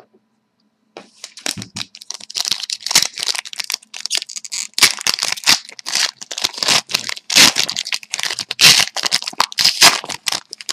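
A trading-card pack's foil wrapper being torn open and crinkled by hand, starting about a second in and going on in quick, irregular crackles.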